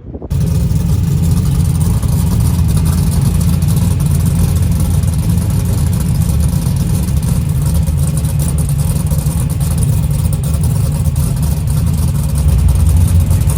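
A car engine running loud and close, a steady deep rumble that starts abruptly just after the beginning.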